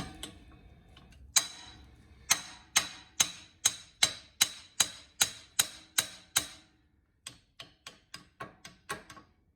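Hand tools working on a staked axle nut: about a dozen sharp metal-on-metal clicks, evenly spaced at about two a second, each with a brief ring. Near the end they give way to softer, quicker clicks.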